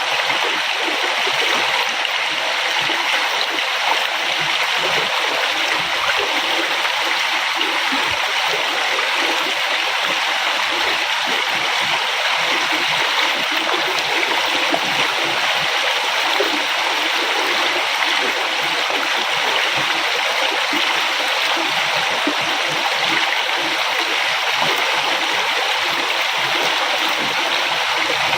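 River water flowing, a steady rushing sound with some gurgling and splashing.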